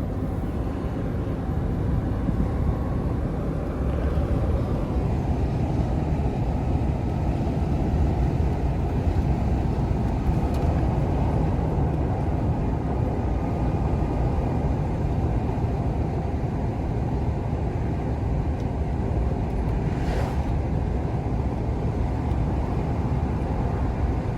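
Lorry driving on the road, heard from inside the cab: a steady mix of engine and road noise, with air coming in through the open side window. A faint brief click about twenty seconds in.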